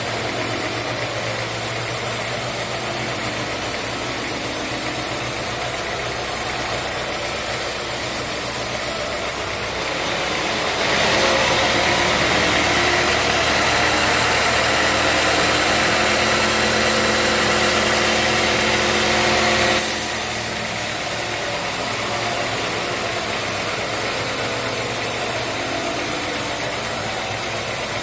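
Sawmill band saw machinery running steadily, its engine drone constant. About eleven seconds in the sound turns louder and brighter, with a high hissing edge, for roughly nine seconds, then drops back to the steady drone.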